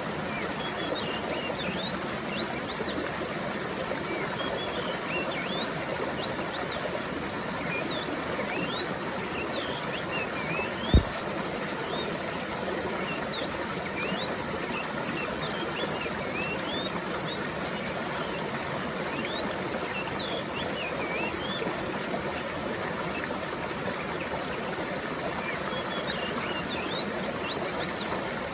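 Stream water running steadily, with small birds calling in many short, quick chirps. A single sharp click about eleven seconds in is the loudest sound.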